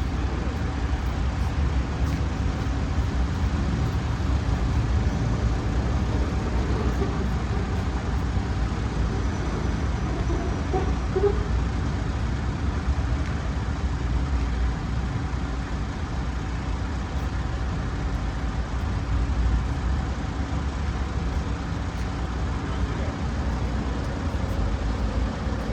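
Steady low outdoor rumble, like distant city traffic, with no distinct ball strikes standing out.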